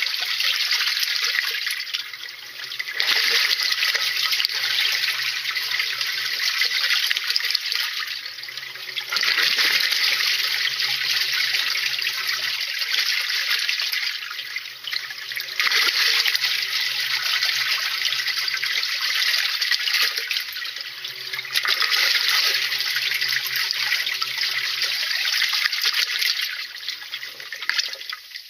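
Water rushing and sloshing in a washing machine tub, swelling in surges about every six seconds.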